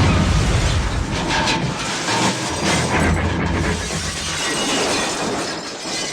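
Car crash sound effect: it starts suddenly and runs as a dense, noisy clatter of crashing and breaking for several seconds, dying down near the end.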